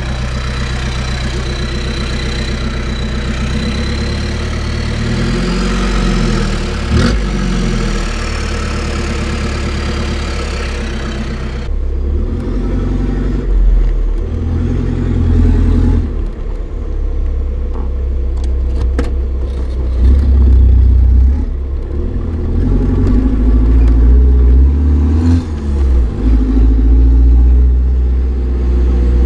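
Opel Frontera's 2.3-litre four-cylinder turbodiesel running through a straight-piped exhaust with no catalytic converter. For about the first twelve seconds it runs steadily with a thin high whine. Then the sound changes abruptly, and the engine is revved up and down again and again, louder.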